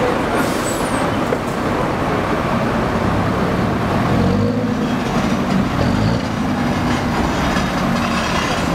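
Alfa Romeo 4C's 1750 turbocharged four-cylinder engine running at low revs as the car creeps along, its pitch rising and falling a few times from about the middle.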